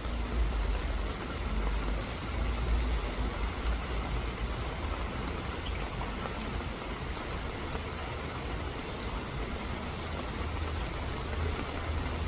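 Steady rain falling, an even hiss, with a low rumble underneath that is strongest in the first few seconds and swells again near the end.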